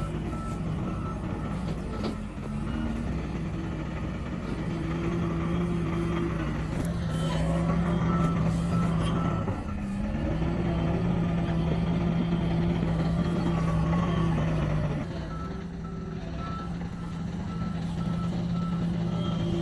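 Reversing alarm on heavy earthmoving equipment, beeping at about two beeps a second in three spells, over a diesel engine running steadily. The engine grows louder in the middle stretch.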